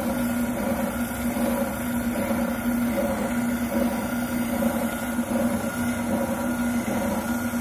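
Wilton oscillating sander running with a steady motor hum and a slight regular pulse about twice a second, as a shotgun buttplate is sanded down to fit the stock.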